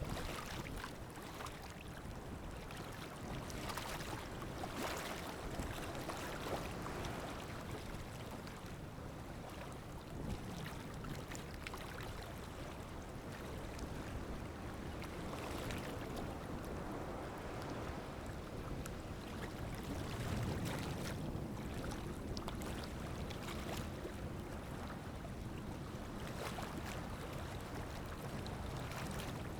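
Sea waves washing in and breaking: a continuous rush of surf that swells and eases every few seconds, with fizzing spray.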